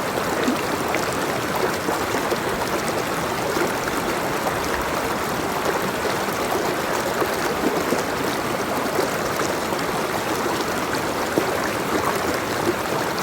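Water flowing steadily, an even rush with small irregular splashes and drips running through it.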